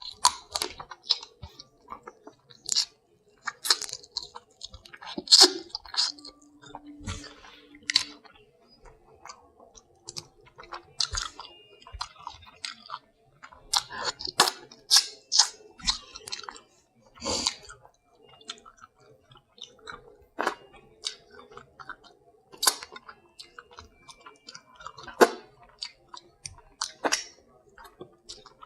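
Close-miked chewing and smacking of seafood boil, broken by many irregular sharp snaps and cracks as crab shell is broken and eaten. A short closed-mouth hum comes about six seconds in.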